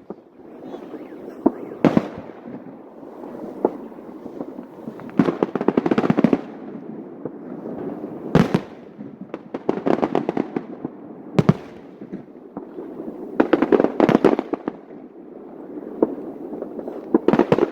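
Aerial fireworks display. Single loud shell bursts come every few seconds, with dense rapid crackling salvos between them over a continuous rumble.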